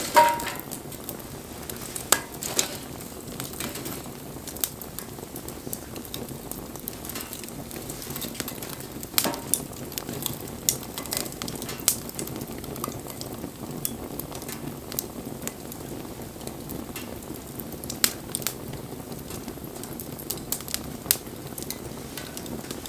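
Wood campfire burning: a steady hiss with sharp crackles and pops of the burning wood at irregular intervals, the loudest crack just after the start.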